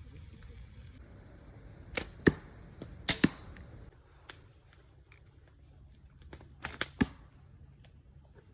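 Archery shots: three quick groups of sharp cracks, each a string releasing and a hit a fraction of a second later. They come about two seconds in, about three seconds in and near the seven-second mark.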